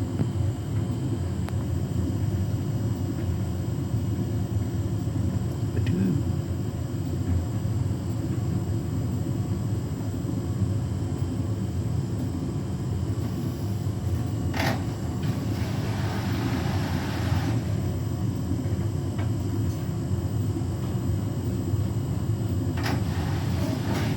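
Beko WTK104121W washing machine running in its final rinse-and-spin cycle: a steady low rumble from the drum and motor, with a sharp click about halfway through followed by a couple of seconds of hiss, and another click near the end.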